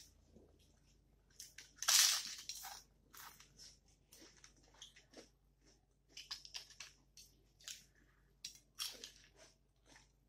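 Bites into a crisp papad crunching, with chewing between them, in three bursts: the loudest about two seconds in, more around six to seven seconds and about nine seconds in.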